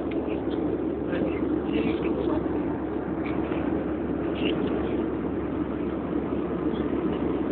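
Steady airliner cabin noise: the constant rumble of the engines and rushing air, with a few faint, short high clicks over it.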